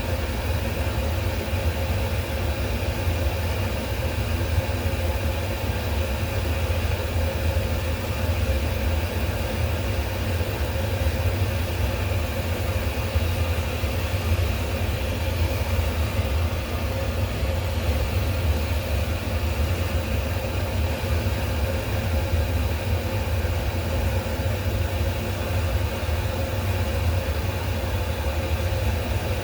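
A steady low mechanical hum with a faint held tone above it, unchanging throughout.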